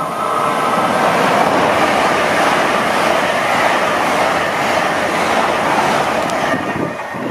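LNER Class 800 'Azuma' train passing close by at speed: a loud, steady rush of wheels on rail and air that swells as it arrives and falls away near the end as the last coaches go by.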